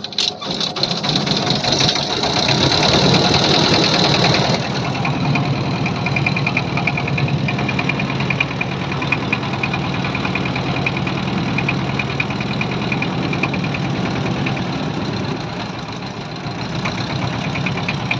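Engine of a river trawler (a motorized wooden boat) running steadily with a fast knocking beat, a little louder for a couple of seconds early in the run.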